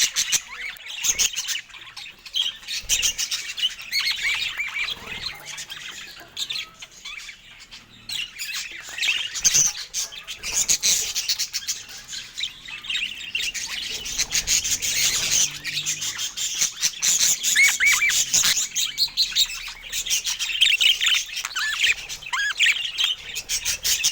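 Budgerigars chattering and warbling: a continuous stream of quick chirps, twitters and short squawks.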